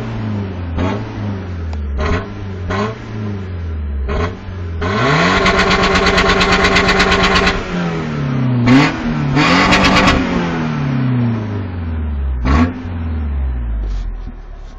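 Toyota Tacoma pickup's engine being revved hard: a string of quick throttle blips, then about three seconds held at high revs with a rapid, even pulsing, a drop, a second high rev, one more blip, and settling to idle near the end.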